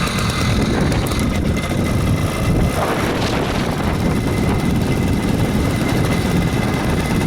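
A 66cc two-stroke motorized-bicycle engine running steadily under way, a loud, even drone heaviest in the low end.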